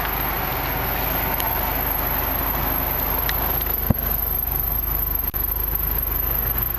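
Steady low hum of a car engine idling, with a single sharp knock about four seconds in.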